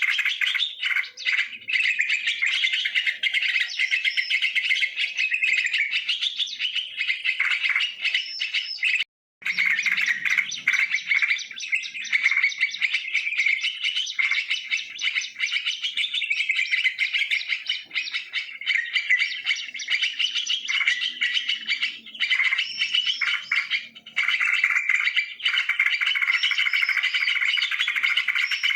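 Yellow-vented bulbuls (trucukan) chattering and calling without pause, a dense run of bubbly chirps, used as a lure call. Near silence for a fraction of a second about nine seconds in.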